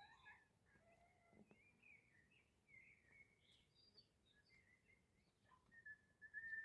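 Faint birdsong: scattered short chirps and calls, with a held high note near the end.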